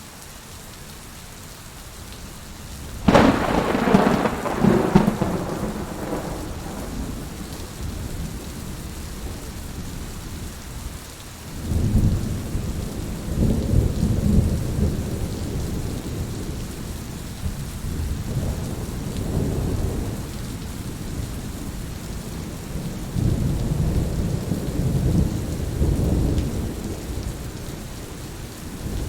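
Heavy rain falling steadily through a thunderstorm, with a sharp thunderclap about three seconds in that dies away over a few seconds, then low rolling thunder rumbling on and off through the rest.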